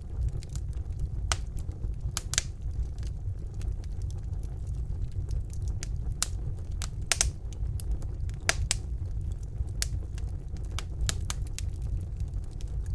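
Wood fire burning in a fireplace: irregular sharp crackles and pops, several a second and a few louder ones, over a steady low rumble of the flames.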